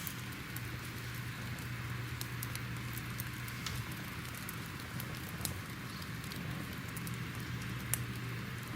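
Crackling fire: a steady hiss with scattered sharp pops and snaps, one louder snap near the end.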